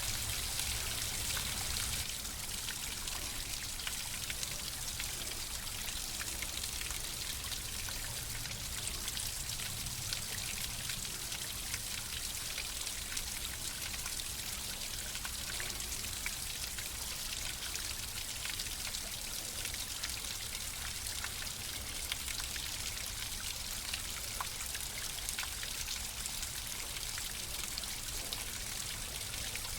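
Flowing water running steadily, a continuous rushing hiss with many small splashes and drips through it; the level drops slightly about two seconds in.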